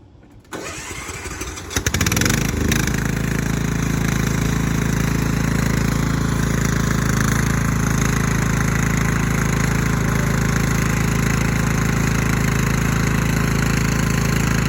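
An engine comes on about half a second in, gets much louder near two seconds, and then runs steadily at a high level.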